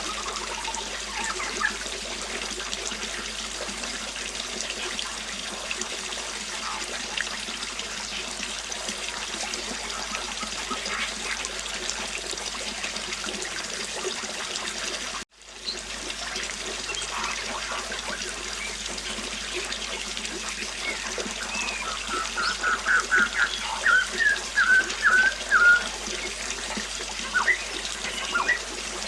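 River water flowing steadily, with a momentary gap in the sound about halfway through. A small bird chirps now and then, with a quick run of chirps in the last third.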